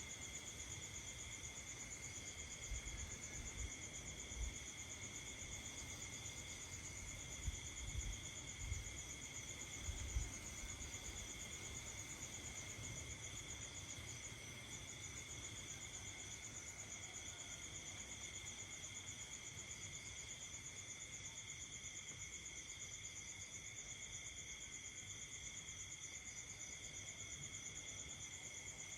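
Night chorus of crickets and other insects trilling steadily in several high-pitched layers, one of them breaking off and resuming every few seconds. A few low thuds in the first ten seconds or so.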